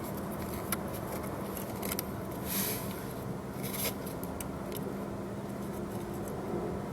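Scattered small clicks and scrapes of hand work, a wire being fitted to a car's starter solenoid terminal, over a steady low hum.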